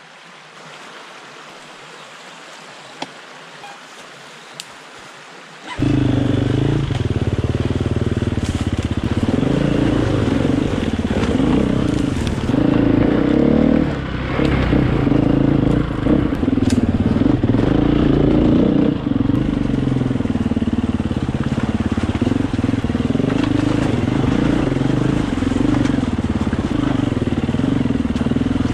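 KTM enduro motorcycle engine. After about six seconds of quieter background with a couple of small clicks, the engine sound cuts in loud and runs on, revs rising and falling as the bike picks its way along a rocky creek bed.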